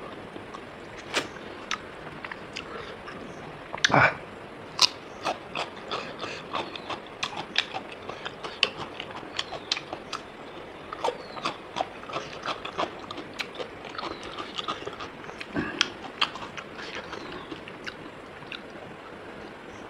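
Close-miked eating: a person chewing rice and pork, with wet mouth smacks and sharp clicks coming several times a second, and a louder knock about four seconds in.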